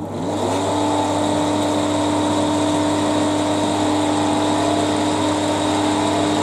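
Rewired single-phase lathe electric motor with a belt drive, finishing its run-up with a rising whine about half a second in, then running with a steady hum and whine. The owner judges it still not running right; the motor is warming and soon smokes from inside.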